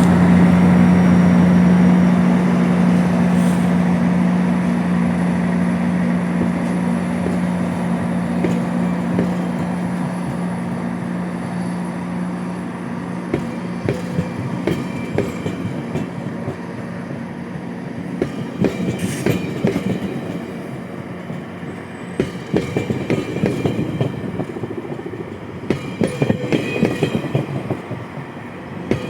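A GO Transit bilevel commuter train departing and rolling past. A diesel locomotive's steady drone fades over the first dozen seconds or so, then the coaches' wheels clatter and click over the rail joints, louder and more broken up near the end.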